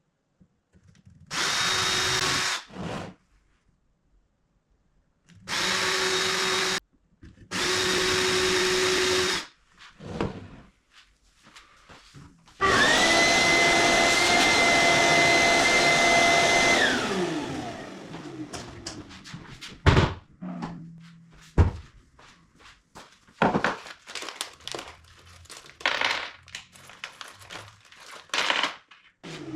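Electric drill running in three short bursts of about a second each, then a longer, higher-pitched run of about four seconds that winds down. Scattered knocks and handling clicks follow.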